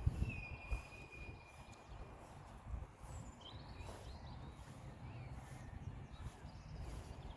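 Outdoor bird calls: one long thin whistle early on and a few short chirps about halfway through, over a steady low rumbling noise.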